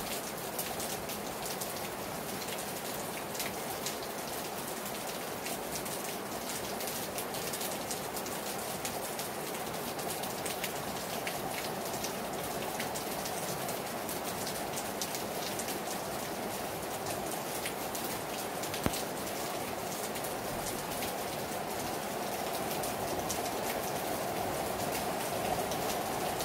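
Heavy rain falling hard on a terrace: a steady rushing hiss full of individual drops ticking on the surface, with one sharper tap about nineteen seconds in.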